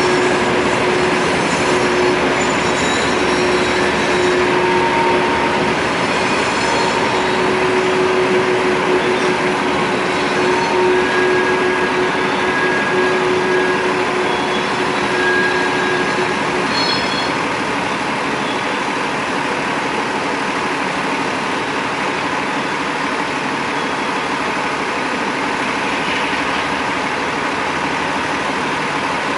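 Freight train rolling past: a steady rumble with thin, high squealing tones from the wheels that fade out a little over halfway through, after which the steady rumble carries on.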